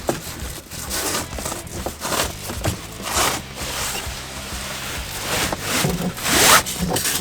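Seat cover fabric and straps rustling and scraping as they are pulled and pushed through the seat, in a string of swishes, the loudest near the end, over faint background music.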